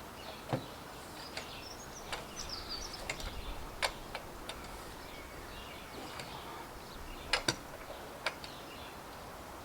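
Irregular sharp metallic clicks and knocks of hand tools and wheel hardware while a tractor wheel is being fitted, a dozen or so strikes with uneven gaps, two close together about seven seconds in.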